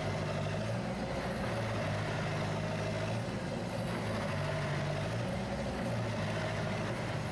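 Heavy vehicle engines running steadily, with a faint high whine that rises and falls every couple of seconds.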